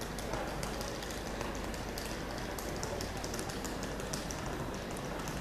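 Siemens Desiro Classic electric multiple unit rolling slowly in over the station tracks, a steady low running sound with many light, irregular clicks and ticks over it.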